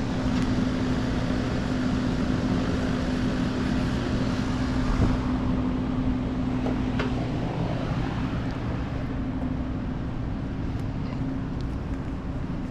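A motor vehicle engine running steadily with a constant low hum. It eases off in the second half, with a couple of faint knocks.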